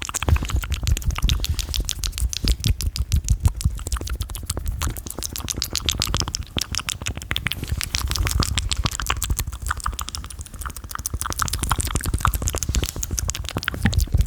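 Fast, aggressive close-microphone ASMR mouth and hand sounds: a dense run of wet clicks, pops and smacks, many a second, with thumps from hands close on the microphone.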